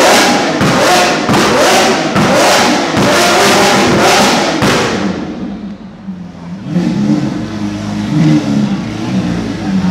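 Lamborghini Aventador V12 revved hard again and again, several quick throttle blips each rising in pitch, for about five seconds. It then drops away and settles into a lower, steadier engine note.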